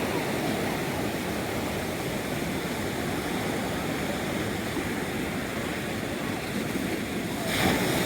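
Pacific Ocean surf washing steadily, with a louder surge near the end.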